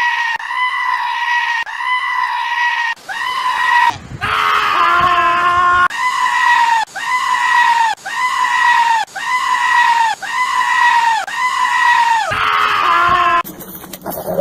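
A goat screaming over and over: long, high-pitched, human-like bleats, about one a second and nearly identical each time. A lower-pitched bleat overlaps them twice. The calling breaks off shortly before the end.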